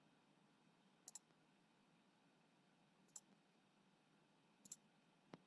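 Faint computer mouse clicks over near-silent room tone: a quick double-click about a second in, a single click around three seconds, and another double-click followed by one more click near the end.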